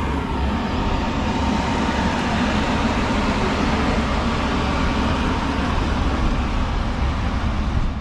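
Multi-car studio tour tram running steadily, heard from on board: a continuous low rumble of its motor and wheels with a faint thin whine over it.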